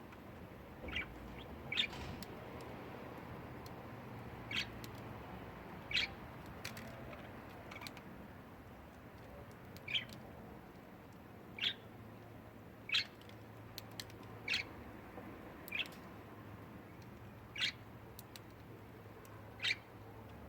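Budgerigar giving short single chirps, about a dozen spaced a second or two apart, over a faint steady low hum.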